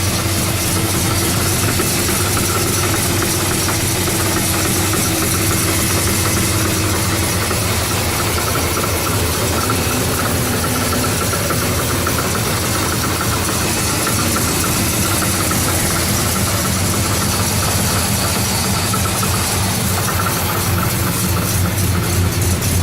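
Oldsmobile 403 V8 in a 1970 Cutlass idling steadily, still a little cold, with a rattle from an exhaust header knocking against the frame. The exhaust beat grows stronger and more pulsing near the end.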